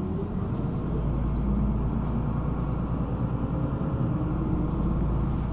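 City bus engine and road rumble heard inside the cabin as the bus drives, the engine note rising as it pulls along.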